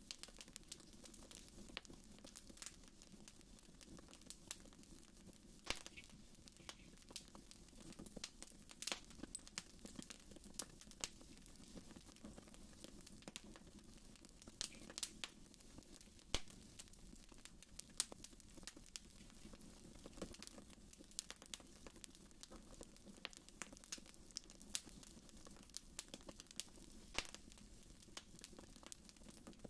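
Wood fire in a fireplace crackling, with irregular sharp pops and snaps over a low steady rush.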